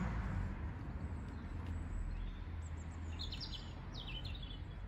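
Small bird chirping: a quick run of short high calls about three seconds in, over a steady low outdoor rumble.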